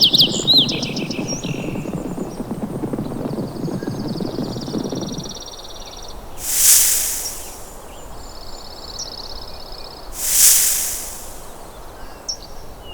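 Wild birds calling: a short chirping song at the start, then a high, even trill twice. Two loud, harsh, hissing rasps about three and a half seconds apart sit between them. A low rumble of outdoor noise stops suddenly about five seconds in.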